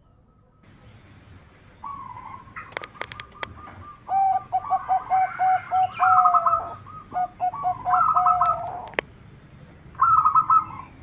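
Zebra dove (perkutut) song: runs of quick, short cooing notes, starting about two seconds in and loudest from about four seconds, with a last short run near the end. A few sharp clicks come about three seconds in.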